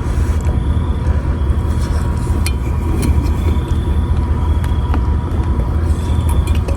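Steady low rumble of an idling vehicle engine, with a faint constant high tone and a few light clicks about two and a half and five seconds in.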